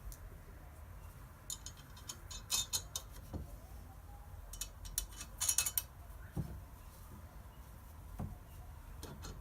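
Small metal parts and hand tools clinking and tapping in two short flurries, with a few soft, dull knocks between them.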